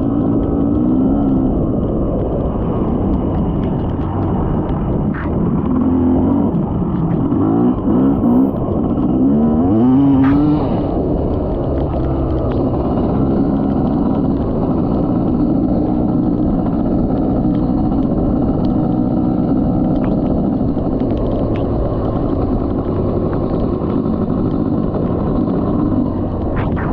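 Dirt bike engine running under way, with a heavy rumble of wind and road noise; the revs climb several times around the middle, then settle to a steady pitch.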